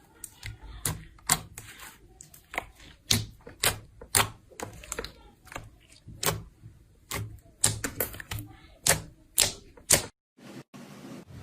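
Slime being pressed and played with, giving sharp clicking pops at irregular intervals, about two a second. The clicks stop suddenly about ten seconds in, and a faint steady hiss follows.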